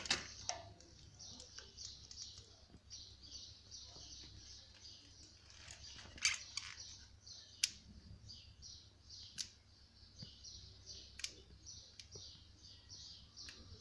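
A small bird chirping faintly in a long run of short, high notes. A few sharp clicks are scattered through it.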